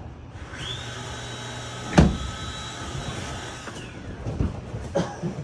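A small electric motor runs with a high whine for about three seconds, rising in pitch as it starts and cutting off abruptly. A single sharp thump midway is the loudest sound, and a few softer knocks follow near the end.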